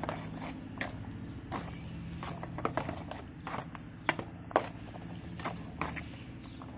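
A string of irregular sharp knocks and clicks, about one or two a second, over a low steady hum.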